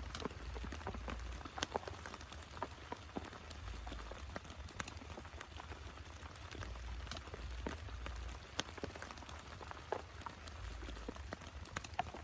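Rain falling, with many separate drops striking close by at irregular intervals over a steady hiss and a low rumble underneath.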